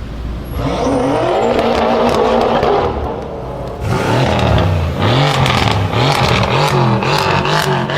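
Loud car engine and exhaust revving hard, its pitch climbing and dropping several times, with a short lull about three seconds in.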